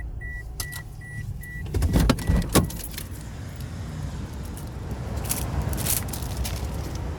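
A vehicle's high warning chime beeping about three times a second, stopping about two and a half seconds in, over a low steady vehicle rumble. Clicks, a jangle and a couple of knocks come about two seconds in, as of a car door being handled.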